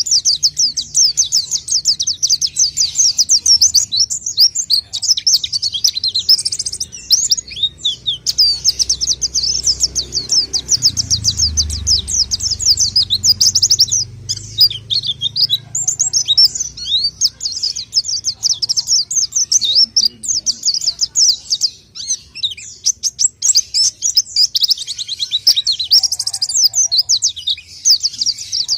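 White-eye (pleci) singing a long, rapid song of quick high-pitched chirps, with a few short pauses. A brief low rumble comes about eleven seconds in.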